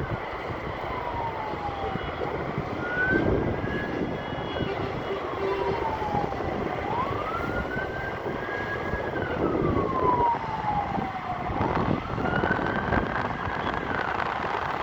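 An emergency-vehicle siren in a slow wail: its pitch climbs quickly, holds, then slides down slowly, three times over. Steady wind noise on the microphone runs underneath.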